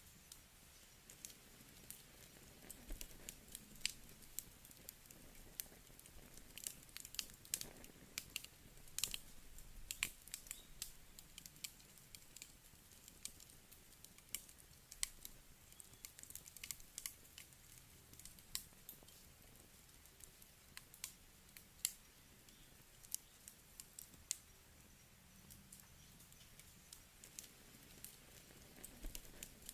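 Wood campfire crackling: irregular sharp pops and snaps of burning firewood, quite sparse, busiest in the first half and thinning out toward the end.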